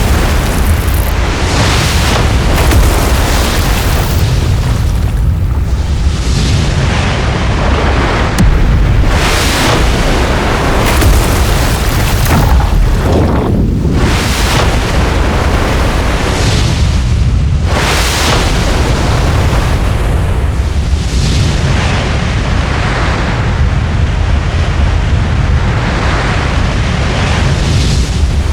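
Rushing floodwater from a model dam breach: a loud, continuous rush with a heavy low rumble that surges louder and softer in waves.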